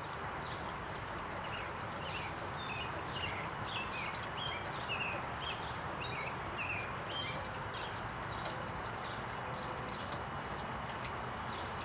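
Small birds chirping outdoors: rapid high trills and short repeated chirps over a steady low background hiss.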